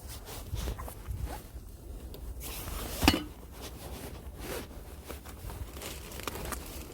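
Short scratchy rustles and scrapes of things being handled, zipper-like, with one sharp knock about three seconds in.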